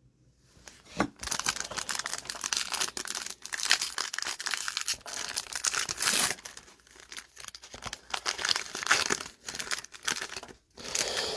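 A trading-card pack's plastic foil wrapper being torn open and crinkled by hand, a dense crackling that starts about a second in and goes on in bouts.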